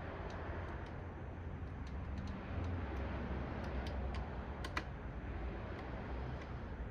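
Scattered small clicks and taps of hands working on parts, with a couple of sharper clicks about five seconds in, over a low rumble.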